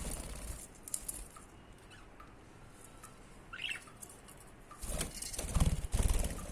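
Budgie's wings flapping in rapid flutters: a short burst at the start and a longer, louder one near the end, with a brief chirp in between.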